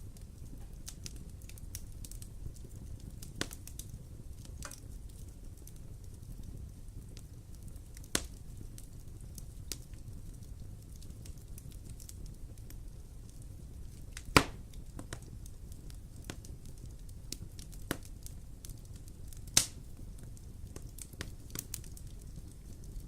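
Wood fire burning in a fireplace: a low steady rumble with scattered sharp crackles and pops, two louder pops about 14 and 20 seconds in.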